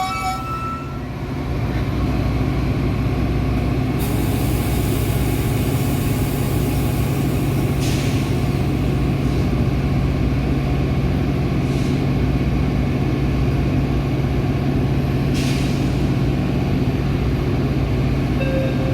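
Metra commuter train's diesel locomotive running steadily with a low hum, with several short bursts of compressed-air hiss. A steady tone cuts off in the first second.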